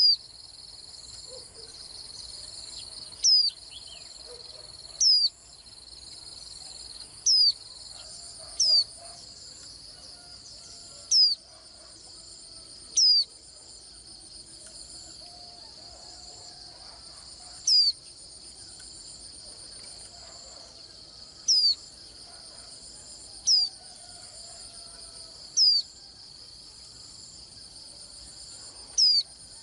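White-eye giving short, sharp downslurred call notes, about a dozen spaced two to four seconds apart, over a steady pulsing insect chorus.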